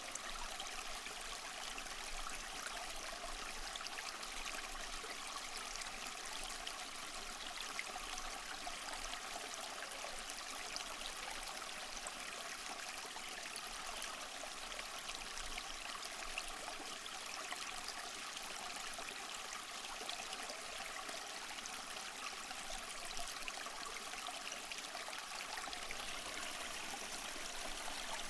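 Small waterfall splashing and trickling steadily over mossy rocks, an even rushing of water with fine splashes and no change.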